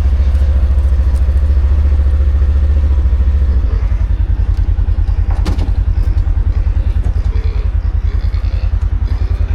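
Engine of a ride-on farm vehicle running with a steady low throb that eases slightly a little over a third of the way in, with one short knock about five and a half seconds in.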